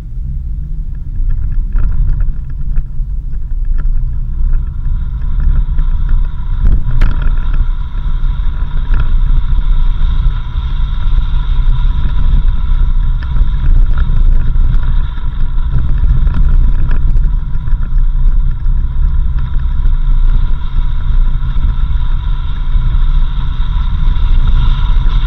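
A 4x4 vehicle driving on a dirt road: a steady low rumble of engine and tyres, with a steady high whine and scattered knocks and rattles. It grows louder over the first few seconds.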